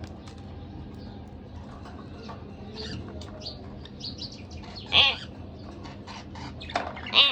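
Pet budgerigars chirping and chattering softly, with two loud, harsh calls: one about five seconds in and another near the end.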